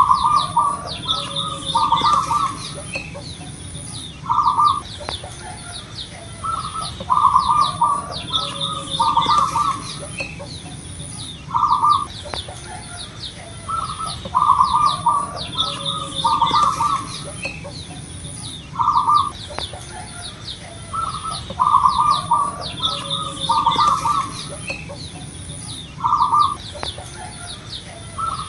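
Zebra dove (perkutut) cooing: repeated short phrases of a few quick low notes every one to three seconds. Thin high chirps from other small birds and a faint high pulsing tone sound behind it.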